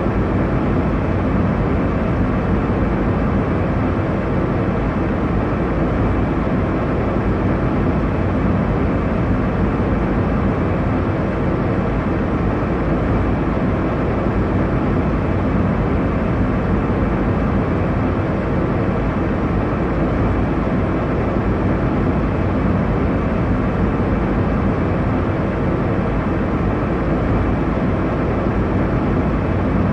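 Airliner cabin noise: a steady, even rumble with the energy low down and little hiss at the top, without change.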